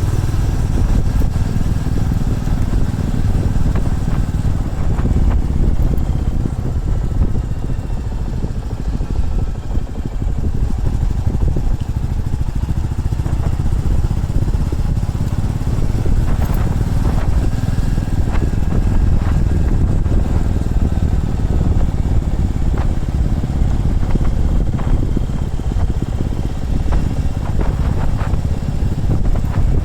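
Motorcycle being ridden, its engine running steadily under a heavy low rumble, with faint shifts in engine pitch.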